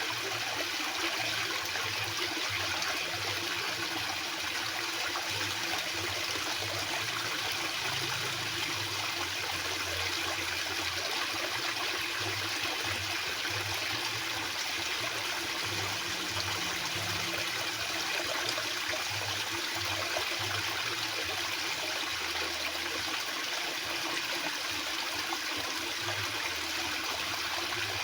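Fast-flowing water rushing steadily, an even hiss and splash with no breaks.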